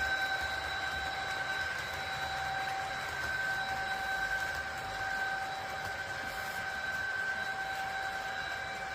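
A train running with a steady, high-pitched whine that holds one pitch throughout.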